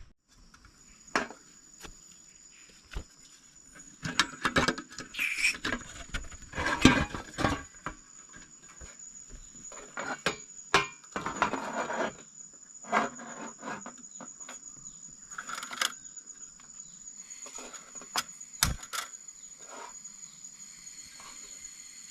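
Insects in the forest keep up a steady high-pitched drone. Over it come irregular sharp clicks, knocks and rustling bursts, busiest in the first half and thinning out near the end.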